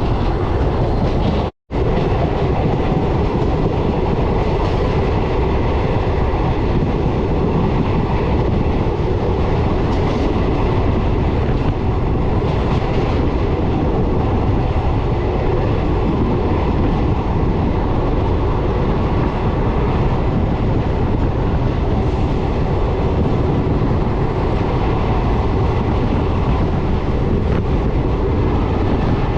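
Passenger train running at speed on the rails: a steady, loud noise of wheels and coaches, with some clickety-clack. The sound cuts out briefly about a second and a half in.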